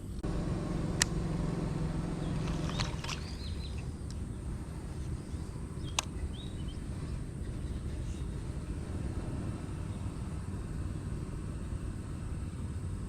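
Steady low outdoor rumble, with a low engine-like hum for the first three seconds and two sharp knocks about five seconds apart.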